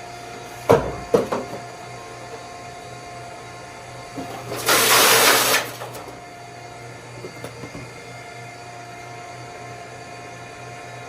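Box erector machine running with a steady hum, two sharp clacks under a second in, and a loud rushing noise lasting about a second halfway through, as it forms a small shipping box.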